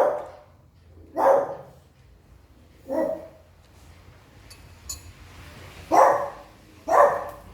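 A dog barking five times, single loud barks spaced irregularly a second or more apart.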